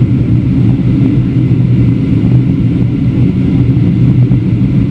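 Steady, loud low rumble in the cabin of a Boeing 737-700 descending, the two CFM56-7B engines and rushing airflow making an unbroken drone.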